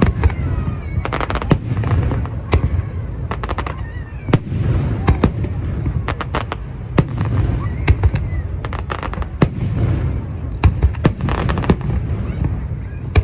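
Fireworks show: a steady run of loud sharp bangs and clusters of rapid crackling over a continuous low rumble, with a few whistling glides about a second in.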